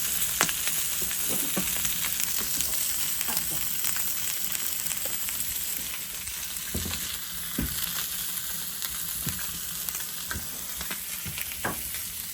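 Food sizzling in a hot frying pan: a steady hiss with scattered pops and crackles.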